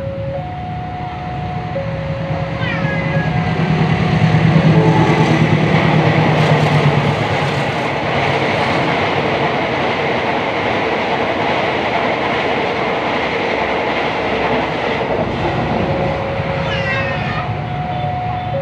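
A railway level crossing warning alarm sounds a two-tone signal that alternates between a higher and a lower note while a train passes. The train's engine hum is loudest about four to seven seconds in, then gives way to a steady rolling of the cars. The alarm tones are heard again near the end.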